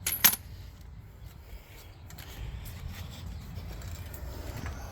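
Work on a truck wheel with hand tools: one short, sharp metal clank about a quarter second in, then small metal clicks and scrapes over a low rumble.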